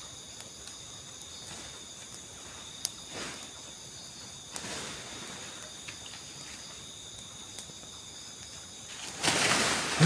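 Night insect chorus: crickets trilling steadily at several high pitches, with scattered faint clicks. A louder burst of rustling noise comes near the end.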